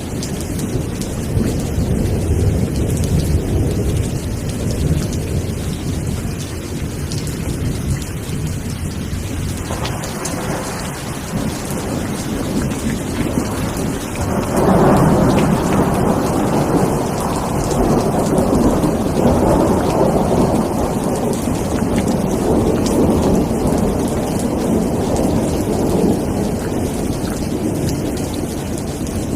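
Steady rain with thunder: a deep, low rumble for the first half, then a louder roll of thunder breaks in about halfway through and rumbles on over the rain.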